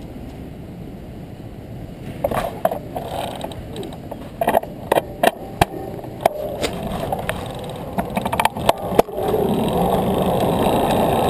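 Irregular clicks, knocks and rattles from a bicycle being handled, then a steady rushing noise that sets in about nine seconds in and grows a little louder.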